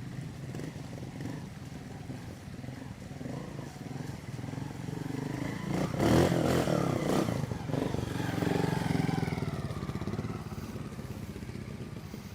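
Trials motorcycle working through a section, its engine blipping and revving hard about halfway through, then the engine note rising and falling as it eases off.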